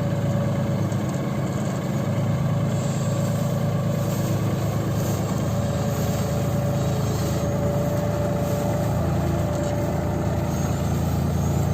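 Heavy diesel engine of a farm or construction machine running steadily at an even speed, with a thin steady whine above the rumble.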